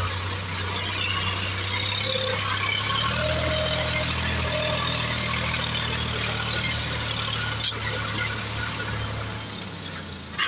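Heavy diesel engine running steadily, its pitch shifting slightly about three seconds in, with one short click a little past the middle.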